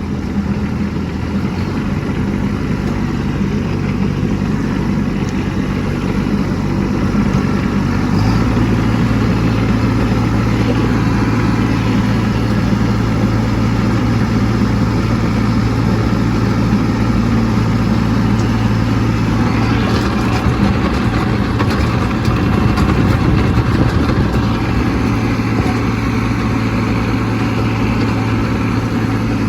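Kubota B2601 compact tractor's three-cylinder diesel engine running steadily under load, its note stepping up and getting louder about eight seconds in. A few light clicks come about twenty seconds in.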